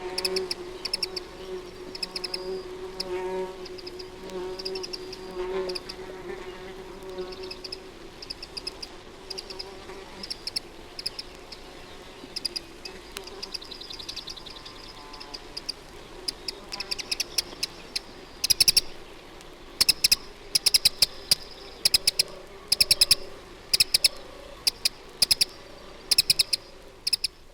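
Steady hum of an insect's wings, like a fly or bee buzzing, fading out about a third of the way through, over a chorus of small songbirds giving rapid high repeated notes. The birdsong grows louder and busier in the last third.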